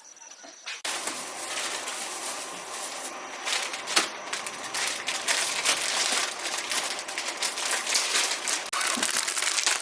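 Packaging being crinkled and rustled by hand: a dense crackle of many small clicks that starts about a second in.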